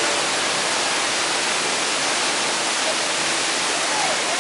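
Steady, loud rush of water from a staged flash-flood effect pouring through a mock subway station.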